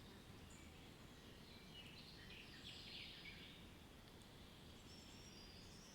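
Faint, scattered bird chirps over a low, steady background hiss of outdoor ambience, with a denser run of calls a couple of seconds in.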